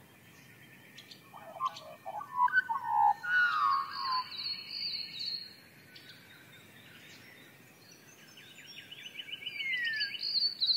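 Wild birds calling: a few warbling, whistled phrases in the first half, then a fast, even trill of repeated notes with a short falling whistle near the end.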